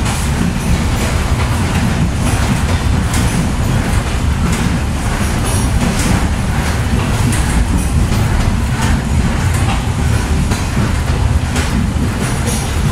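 Passenger train running along the track, heard from inside the coach: a loud, steady rumble of the wheels on the rails with frequent, irregular clacks and rattles.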